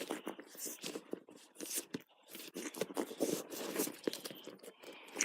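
A dog at play: irregular scuffling, scraping and crunching with many quick clicks.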